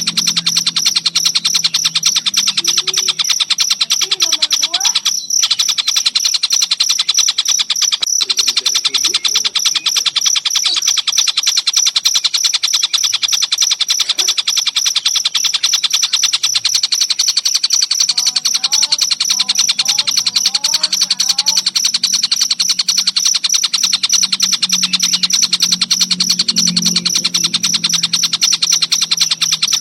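Crickets trilling in a fast, even, unbroken pulse, with a tengkek buto kingfisher's calls rising and falling over it now and then.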